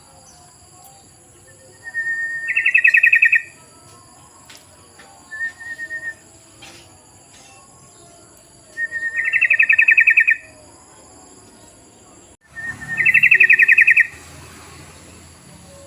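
Yellow-vented bulbul (trucukan) calling, the call used as a lure for the species. It gives three rapid, bubbling, rattling phrases a few seconds apart, each opening with a brief plain note, plus a short single note between the first two. A faint steady high-pitched tone runs underneath.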